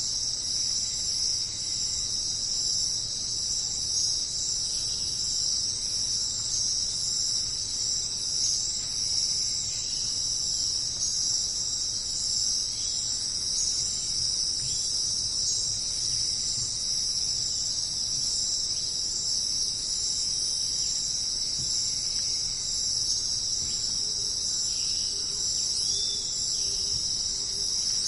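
A dense, steady chorus of crickets chirping, with a few faint bird chirps now and then.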